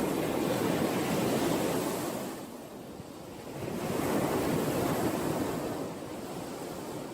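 Sea waves washing ashore in a continuous rush, easing off a little before halfway and swelling again as the next wave comes in.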